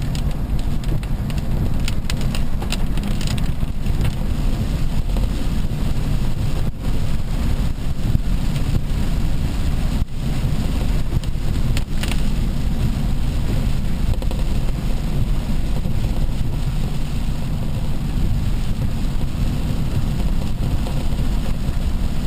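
Steady low rumble of a car driving, with a few sharp clicks in the first few seconds and one more about twelve seconds in.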